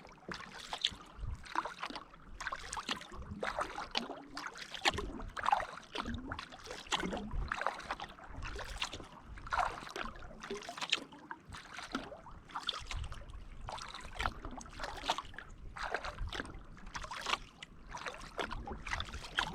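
Kayak paddle strokes dipping into and lifting out of lake water, a steady rhythm of splashes and drips, alternating side to side.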